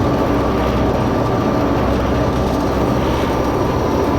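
Steady, even drone of a hydrofoil ferry's engines under way, a low hum with several constant tones and no change in pitch, heard from inside the passenger cabin.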